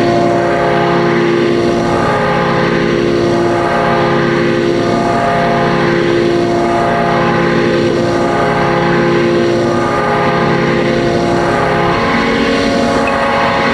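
Experimental electronic drone music played live: a dense, loud wall of layered held tones over a noisy hiss, with no beat. Some of the held tones drop out and shift about twelve seconds in.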